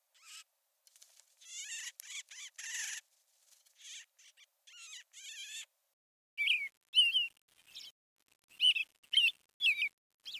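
Small birds chirping in short calls, scratchy at first, then a run of sharp, clear chirps in the second half.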